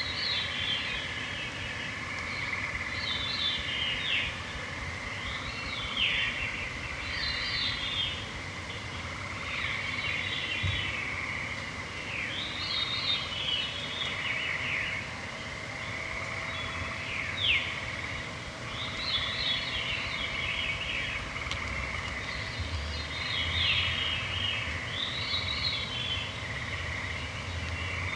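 Evening chorus of songbirds, with downward-sliding song phrases following one another every second or two, over a steady high trill or drone. A fainter, lower steady hum joins about halfway through.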